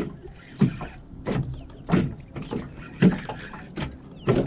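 Series of dull knocks and thuds on a small jon boat, about one every two-thirds of a second.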